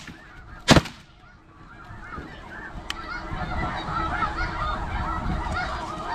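A single shotgun blast less than a second in, then a flock of snow geese calling: many short, high honks overlapping and growing louder and denser.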